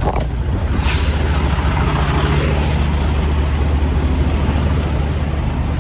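Semi truck's diesel engine idling steadily with a low hum, with a short hiss of air from the air brakes about a second in.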